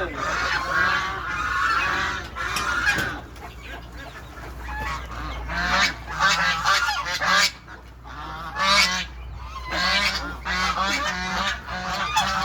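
A flock of farm fowl calling and honking, many birds at once, in short repeated overlapping calls.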